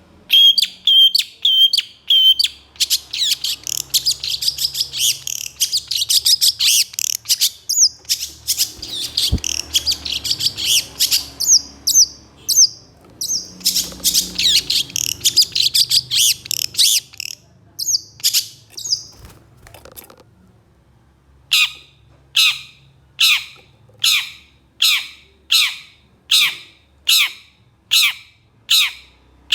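Long-tailed shrike (cendet) singing a fast, dense chattering song. After a short pause about two-thirds of the way through, it gives a run of harsh, evenly spaced calls, about three every two seconds.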